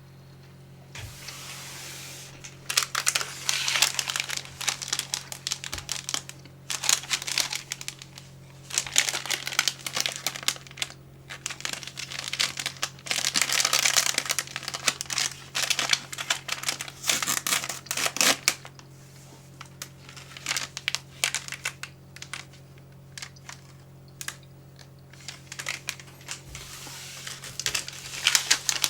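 Crinkly plastic snack packaging being handled, crackling and crinkling in long dense stretches with sparser clicks in between.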